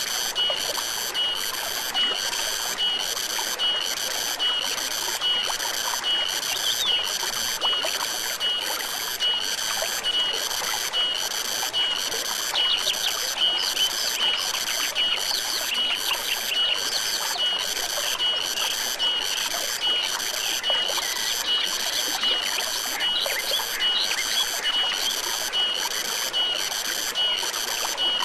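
A chorus of insects buzzing high and steadily, pulsing evenly about one and a half times a second, over the soft hiss of flowing stream water, with scattered short bird chirps.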